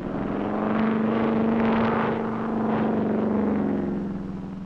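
Piston aircraft engine droning at a steady pitch, swelling up and then fading away as a plane passes.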